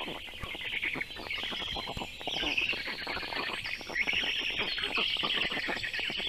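Black stork nestlings calling in a dense, rapid stream of rasping pulses, begging for fish at the nest. Songbirds whistle in the background.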